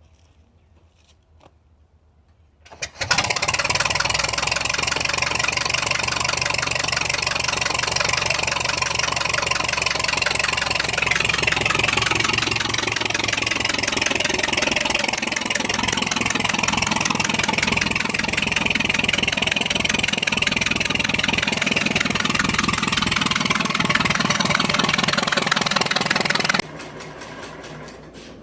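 Ford Model T's four-cylinder side-valve engine starting up suddenly about three seconds in and running fast and loud, its note changing about halfway through, then stopping abruptly near the end.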